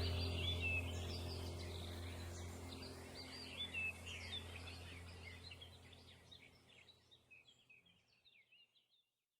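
Songbirds chirping and twittering over a low steady hum, the whole recording fading out to silence about six seconds in.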